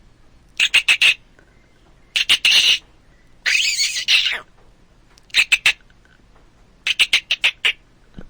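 An animal calling in five short bouts of rapid, squawk-like notes, each bout about half a second to a second long and coming every second and a half or so.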